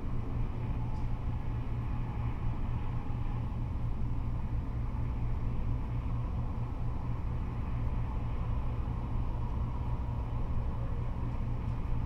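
Continuous freeway traffic noise from cars and trucks passing: a steady low rumble of engines and tyres on the road surface, with no single vehicle standing out.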